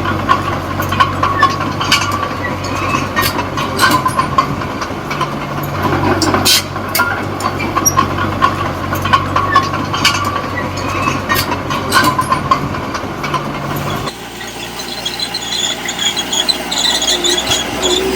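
Small D20P crawler bulldozer running under load: a steady diesel engine note with squealing and repeated clanks from the steel tracks. About 14 seconds in, the engine note drops away, leaving a higher clattering rattle.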